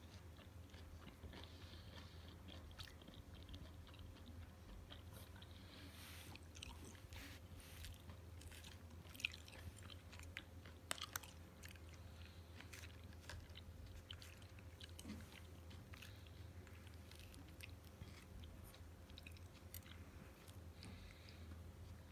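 A person chewing raw mullet and rockfish sashimi, faint and close, with small sharp clicks from the mouth scattered throughout and a few louder ones near the middle. A low steady hum lies underneath.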